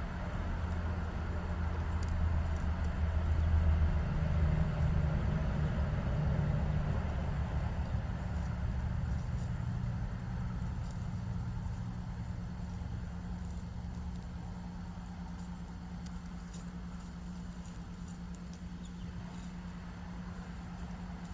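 A low engine rumble of a passing vehicle swells over the first few seconds and then slowly fades, over a steady low hum.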